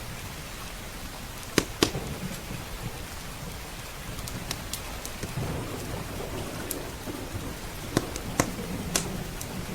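Steady rain with a low rumble of thunder that swells about halfway through, and sharp crackles and pops of a wood fire in a fireplace, the loudest pairs a couple of seconds in and near the end.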